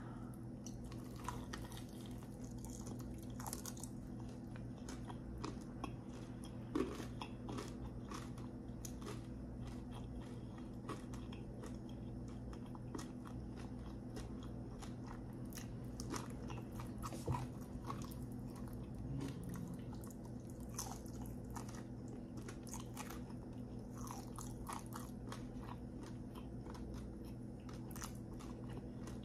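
Close-miked eating of sauce-glazed fried chicken wings: a bite, then chewing with many short, irregular crisp crunches. A steady low hum runs underneath.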